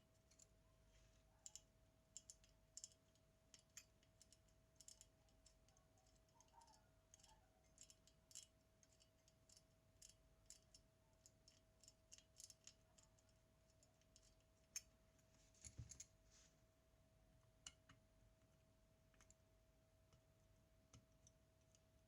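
Faint, irregular clicks and light taps of small tools and metal parts being handled while a Zenit TTL camera is worked on, with a brief cluster of slightly louder clicks past the middle, over a faint steady whine.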